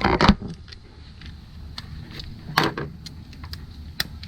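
Hand tools being handled: metal sockets and a wrench clinking and knocking as a 10 mm socket is picked out. There is a clatter at the start, another about two and a half seconds in, and a sharp click near the end.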